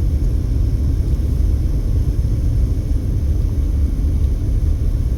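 Car driving at a steady speed: a continuous low rumble of road and engine noise.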